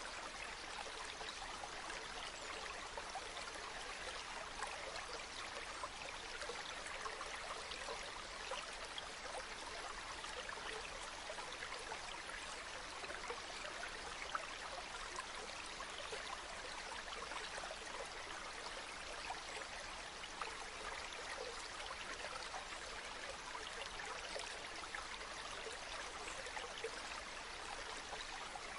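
Waterfall: falling water splashing and rushing in a steady, even wash, with small splashes flecking through it.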